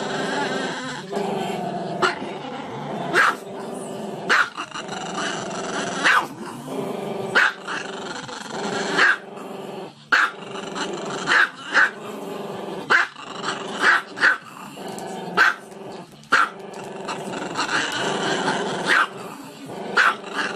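Small black-and-tan dog howling, a drawn-out cry broken by a sharp bark roughly once a second.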